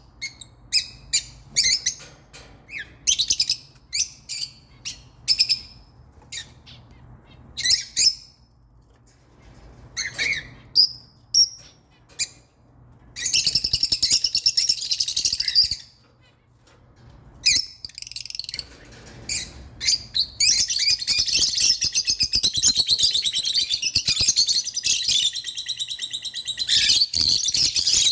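Small birds chirping: separate sharp chirps for the first dozen seconds, then a dense run of rapid chattering about 13 seconds in, and again from about 20 seconds on.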